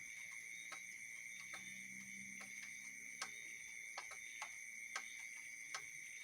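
A faint, steady high-pitched night chorus of frogs and insects, with scattered sharp drips from the last of a rain shower ticking in roughly once a second.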